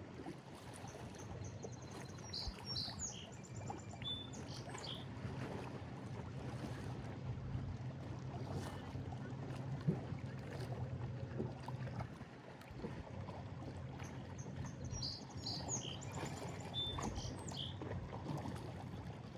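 Lake waves washing against a break wall, with a low steady drone that fades out about twelve seconds in. A bird sings the same short song twice, about two seconds in and again near fifteen seconds.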